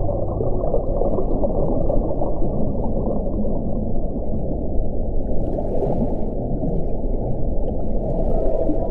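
Wind blowing with a steady low rumble, and faint higher hissing gusts about five and a half and eight seconds in.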